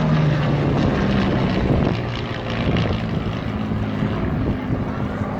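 Hawker Hurricane's Rolls-Royce Merlin V12 engine and propeller droning steadily as the fighter flies past, the pitch shifting slightly and the sound easing a little about two seconds in.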